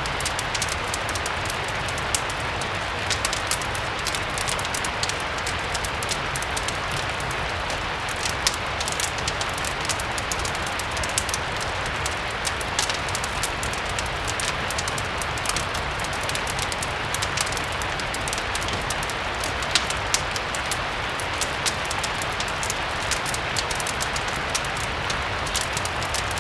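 Steady rain falling, mixed with the irregular crackle of a wood fire, with small sharp pops scattered throughout.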